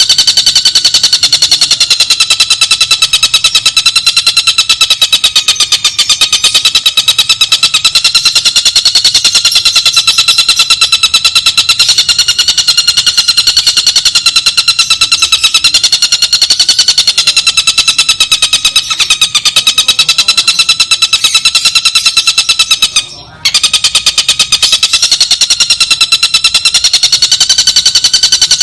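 Birdsong training recording: a shrill, very rapid, continuous trill of evenly repeated notes at a steady pitch, with a brief break about 23 seconds in.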